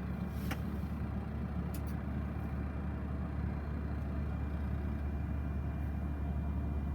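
Steady low machinery drone with a faint hiss over it, unchanging throughout, and a faint tick about half a second in.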